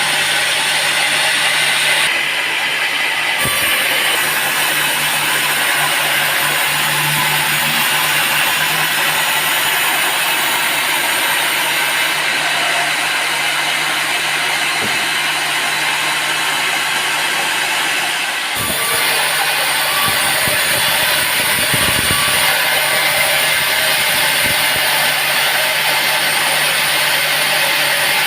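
Sawmill saw and its motor running steadily while sawing teak wood, with a constant low hum under the cutting noise; the sound shifts abruptly about two seconds in and again past the middle.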